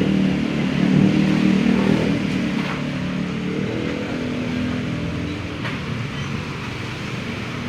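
An engine running with a steady low hum, loudest about a second in and then slowly fading.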